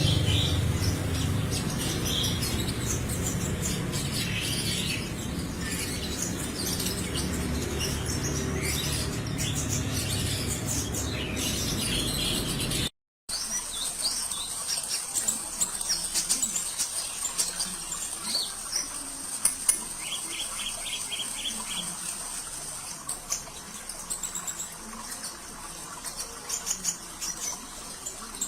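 Kolibri ninja sunbird chirping in rapid, high, twittering bursts over a steady background of trickling water. The sound cuts out briefly about halfway through, then the chirping goes on over a quieter background.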